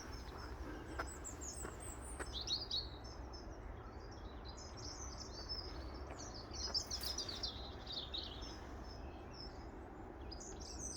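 Small birds chirping and twittering in many short, high calls, over a steady low background rumble.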